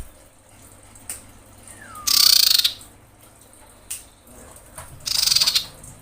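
Female common iora calling: two short, harsh, rattling trills about three seconds apart, with a faint swooping note just before the first. It is the call of a female in breeding condition calling for a male.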